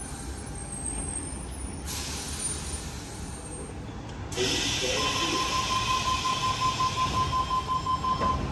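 Electric suburban train at a station platform, rumbling. About four seconds in a hiss of air starts, and from about five seconds a steady high tone pulses quickly until it stops just before the end.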